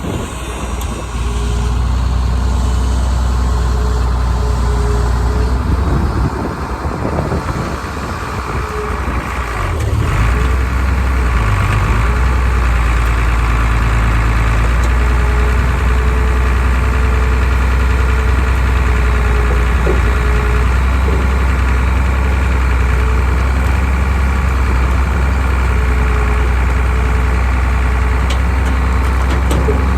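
Farmall 666 tractor engine running steadily, with a brief dip and change in its sound about six to nine seconds in before it settles again.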